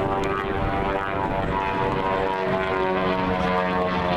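Propeller aircraft passing overhead: a steady engine and propeller drone made of several tones that slide slowly down in pitch as the aircraft go by.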